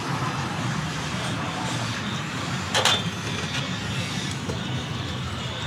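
Steady hum of road traffic, with a single sharp clink a little before the middle.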